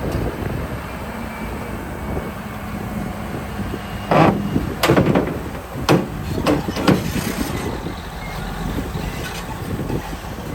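Heavy earthmoving machinery running steadily, with a series of loud clanks and clatter from about four to seven seconds in.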